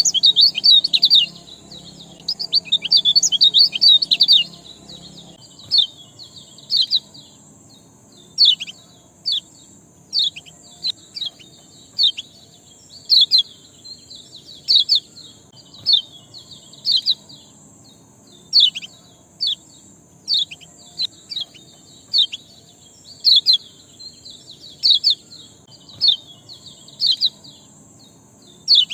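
Small songbird chirping: quick, sharp down-slurred chirps, a dense burst over the first five seconds and then about one or two a second, over a steady high hiss.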